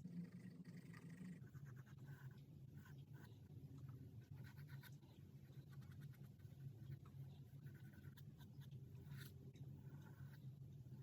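Faint scratching of charcoal on paper in short, irregular strokes, over a steady low hum.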